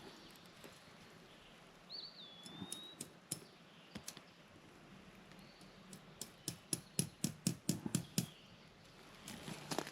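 A quick, even run of about a dozen sharp taps from fence work on barbed wire, a little past the middle, after a few scattered clicks. A bird whistles a short call that slides down in pitch, about two seconds in.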